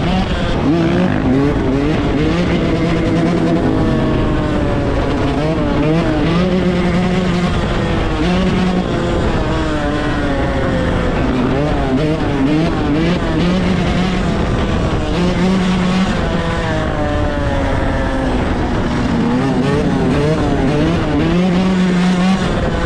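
Several dirt bike engines revving up and down at once, their pitches rising and falling throughout.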